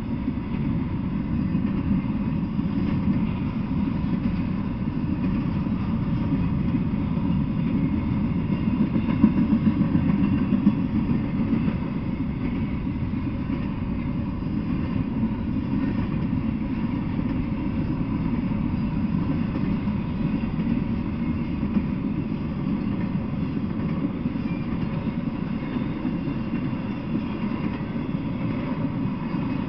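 Freight train of intermodal well cars rolling past: a steady low rumble of steel wheels on rail, with a few louder knocks about nine to eleven seconds in.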